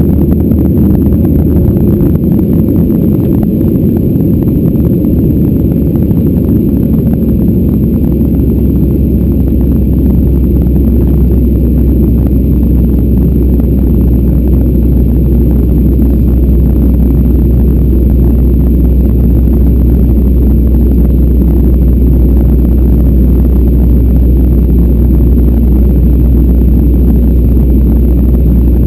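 Boeing 737-800 jet engines and airflow heard as a steady, loud low rumble, with no change in pitch or level.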